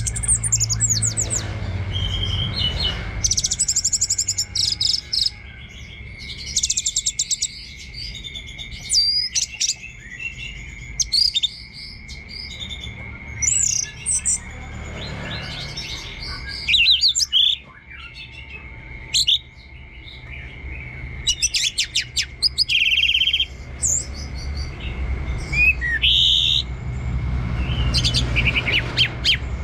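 Orange-headed thrush singing: a long run of short, varied whistled and chattering phrases, a new one every second or two. A steady high thin tone runs underneath.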